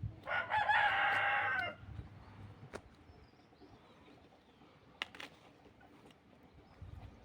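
A rooster crowing once, a single call of about a second and a half, followed by a couple of faint clicks.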